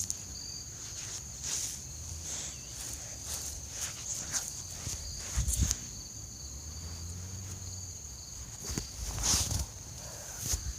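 Steady high-pitched chorus of insects such as crickets, with scattered rustling footsteps or handling noise, a louder pair of them about nine seconds in.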